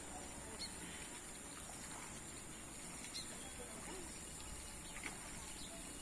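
Quiet outdoor background hiss with a few faint, brief bird chirps, about three of them spread through.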